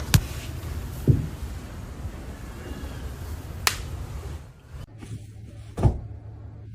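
Four sharp taps or knocks, one to two and a half seconds apart, over a low rumbling background.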